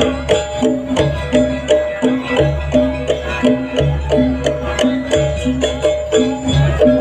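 Traditional Indonesian gamelan music accompanying a Barong dance: a driving rhythm of repeated struck, pitched metal notes and drums over a low bass.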